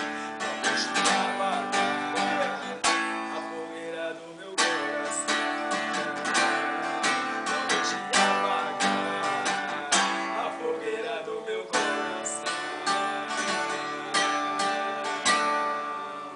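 Acoustic guitar strumming chords in a steady rhythm, with no singing, tapering off in loudness near the end.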